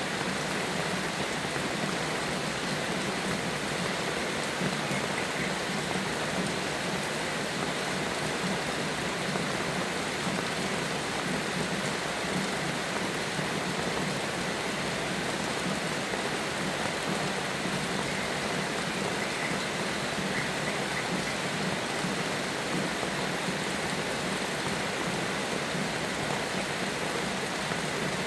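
Steady rain falling, an even hiss that holds constant with no sudden strikes.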